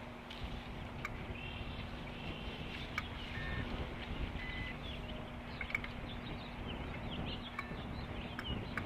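Strong wind buffeting an outdoor nest-cam microphone, a steady low rumble with a faint hum under it. Scattered sharp clicks and repeated short, high bird chirps come through on top, growing busier about two-thirds of the way through.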